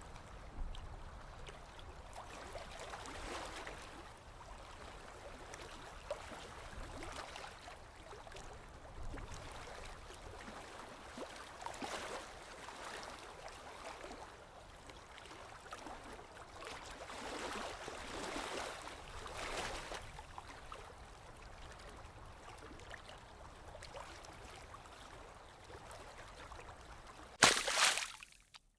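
Small sea waves lapping and washing ashore, swelling and fading every few seconds. Near the end comes a short, louder wash, and then the sound cuts out abruptly.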